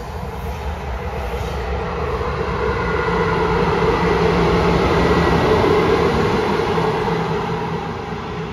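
Electric locomotive passing on the rails: wheel rumble with a steady motor hum and a faint high whine, swelling to a peak about five seconds in as it goes by, then fading.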